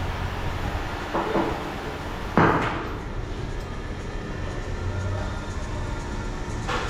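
Two sharp knocks a little over a second apart, the second louder and ringing briefly, over a steady low hum.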